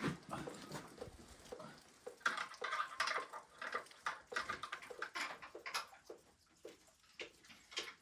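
Irregular clinks and knocks of dishes and utensils being handled during kitchen work, with a brief ringing clink a couple of seconds in.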